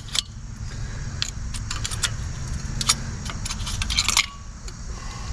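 Light metallic clicks and clinks as thin steel brake-pad abutment clips are pried out of a rear caliper bracket, with a quick run of rattling clinks about four seconds in, over a steady low hum.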